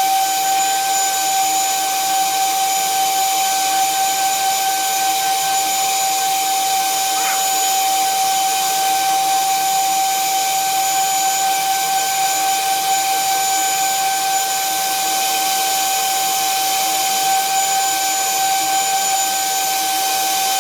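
Power drill running steadily with a high whine that holds one pitch throughout.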